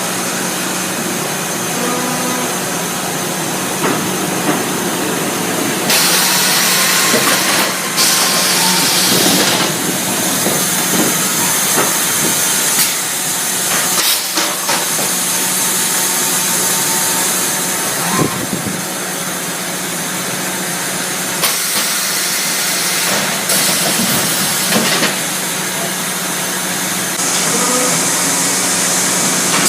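Baker band sawmill and reverse edger running on oak: a steady machine hum under stretches of loud, high hissing a few seconds long, with a few knocks along the way.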